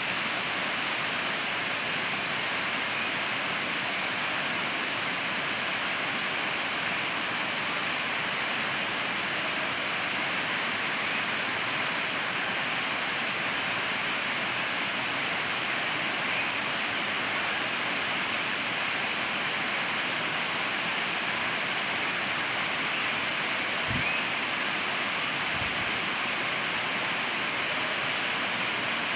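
Waterfall rushing steadily, a dense, even roar of falling water with no let-up.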